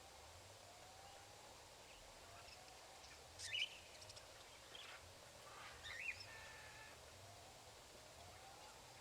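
Faint outdoor ambience over a soft, even hiss, with short bird chirps twice, about three and a half and six seconds in.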